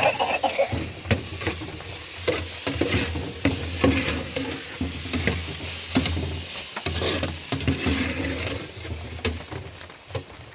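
Food sizzling in a frying pan while it is stirred, with repeated clicks and scrapes of the utensil against the pan.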